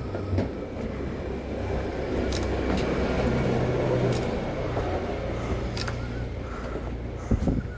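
A vehicle engine running steadily with a low rumble, with a few short knocks near the end.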